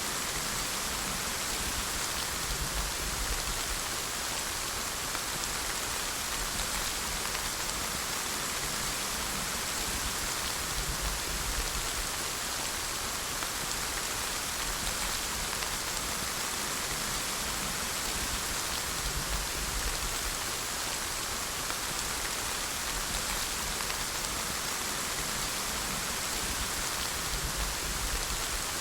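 Steady rain falling, an even hiss of many raindrops that does not change.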